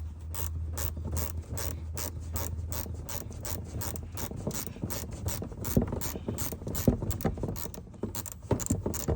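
Ratchet wrench clicking steadily, about three to four clicks a second, as fasteners are worked loose.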